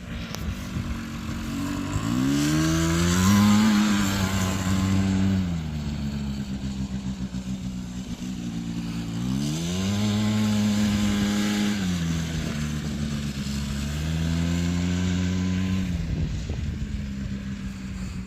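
Small petrol engine of a quad bike or moped being opened up, holding high revs for a few seconds, then easing back to a low, steady run. This happens three times: about two seconds in, about halfway through, and again shortly after.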